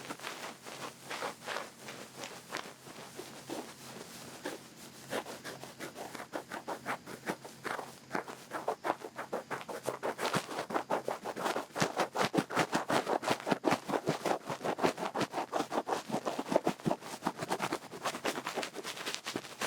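Feather ear pick brushing and scratching at an ear or ear-shaped microphone, in quick strokes. They are sparse at first, then come rapid and louder from about halfway through.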